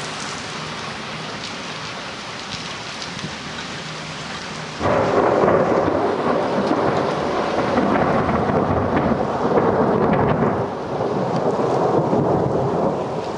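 Rain falling steadily, then about five seconds in a sudden loud thunderclap that rolls on as rumbling thunder over the rain to the end.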